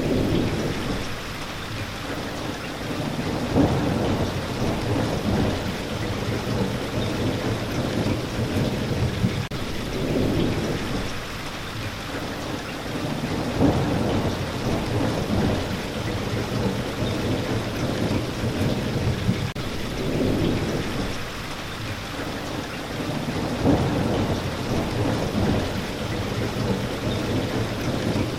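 Steady rain falling, with low rolls of thunder swelling about every ten seconds.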